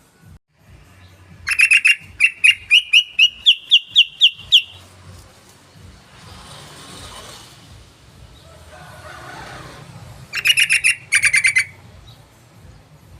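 Yellow-vented bulbul song: a loud chattering phrase of quick, repeated notes that climbs slightly in pitch over about three seconds, then after a pause a shorter burst of rapid notes near the end.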